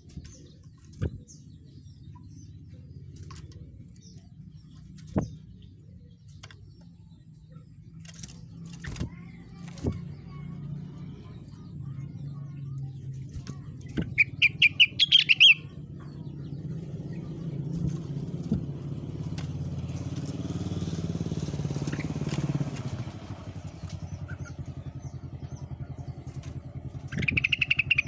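Rengganis songbird giving two fast bursts of rapid, high chirps, one about halfway through and one at the end, over the low rumble of a passing motor vehicle that swells in the second half.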